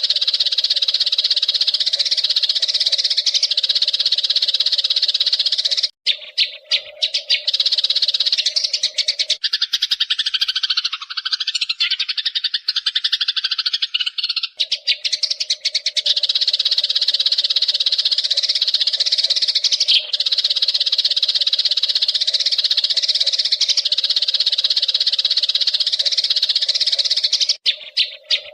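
Eurasian tree sparrows chattering in a dense, unbroken stream of high chirps, the fast agitated chatter of sparrows squabbling. For a few seconds in the middle the chatter gives way to lower, wavering calls.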